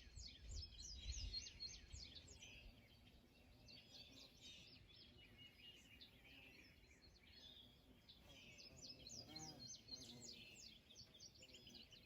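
Faint songbirds chirping and singing, many quick down-slurred chirps overlapping throughout.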